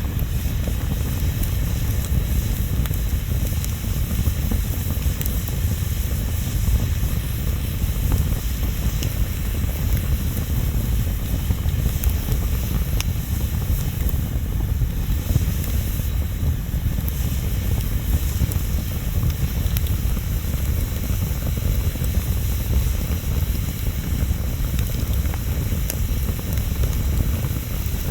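Bonfire (takibi) burning steadily with a low rumble and scattered faint crackles.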